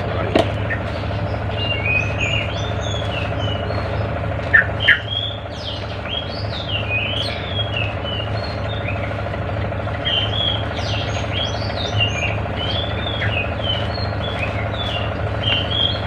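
Small birds chirping in quick, repeated short calls over a steady low hum, with a couple of short knocks about four and a half seconds in.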